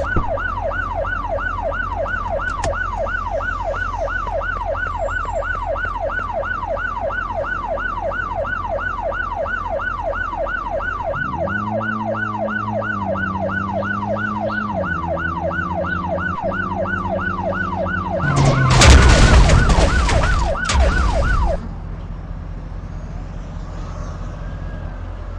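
Siren in fast yelp mode, sweeping quickly up and down about two to three times a second over a steady low hum. A lower steady tone joins it for a few seconds partway through. Near the end a loud, noisy burst comes, and then the siren stops.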